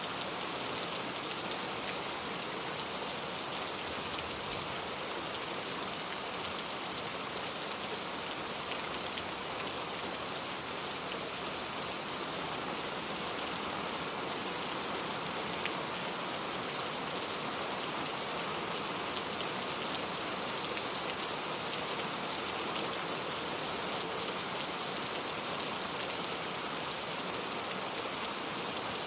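Steady rain falling, an even hiss with scattered drops ticking on a surface, a few drops standing out briefly.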